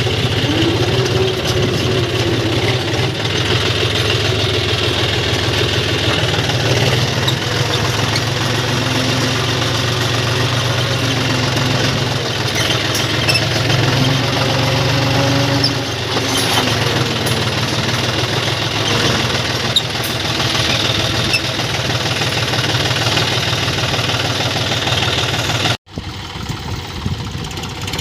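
John Deere 5050 D tractor's three-cylinder diesel engine running steadily at a constant pace. It cuts out abruptly near the end, then comes back quieter.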